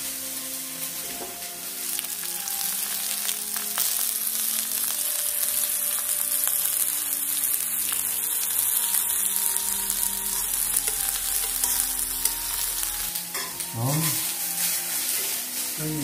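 Sliced vegetables (zucchini, carrot, lotus root, potato and oyster mushrooms) sizzling on a hot pan over a portable gas burner, a steady hissing fry that grows louder about two seconds in.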